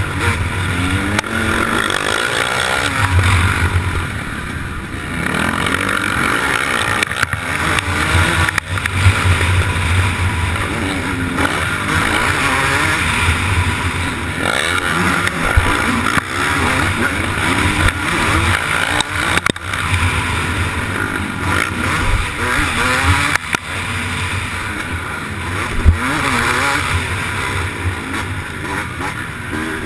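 Motocross bike engine at race pace, heard from a camera mounted on the bike or rider, revving up and down repeatedly through the gears, with a few sharp knocks.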